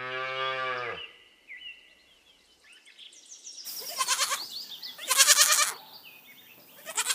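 A calf moos once, a steady low call of about a second. From about three and a half seconds in come several rasping bleats from a young animal, the loudest about five seconds in.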